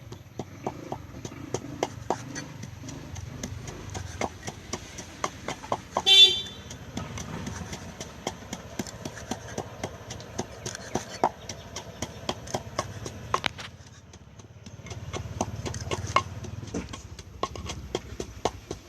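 Knife chopping on a cutting board: rapid, irregular knocks, several a second, throughout. About six seconds in there is a brief loud high-pitched tone.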